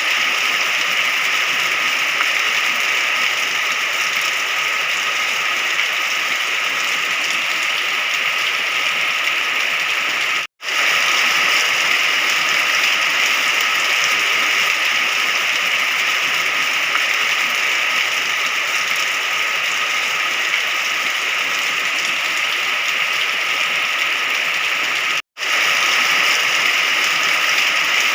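Steady, dense rain hiss, even throughout, cutting out to silence for a split second twice.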